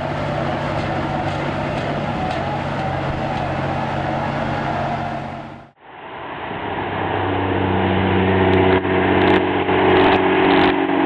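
Heavy off-road vehicle's engine running, in two separate clips with a sudden cut a little past halfway; the engine in the second clip is louder.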